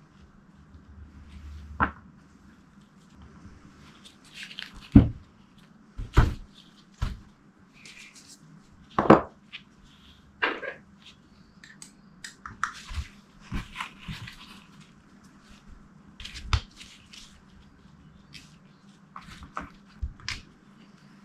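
Small metal power-valve parts and tools being handled and set down on a workbench while the KTM 250SX two-stroke power valve is dismantled: scattered clicks, clinks and knocks, the loudest about five, six and nine seconds in.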